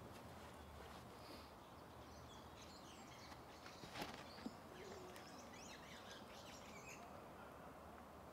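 Faint birdsong, short chirps and trills, over a low outdoor hush, with one sharp click about four seconds in.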